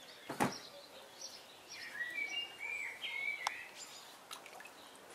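A bird calling in a garden, with short whistled notes about two to three seconds in and light chirps throughout. There is one short thump about half a second in.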